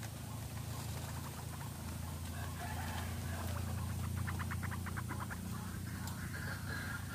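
White-breasted waterhen calls, as used for a bird-trapping lure: a rapid run of about a dozen clucking notes in the middle, then short repeated notes near the end, over a steady low hum.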